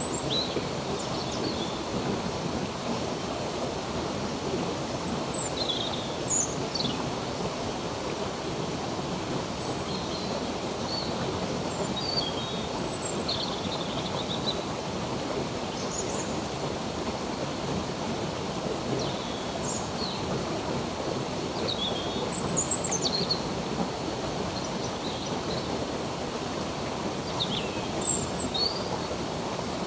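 A stream of running water rushing steadily, with birds chirping in short high calls scattered throughout.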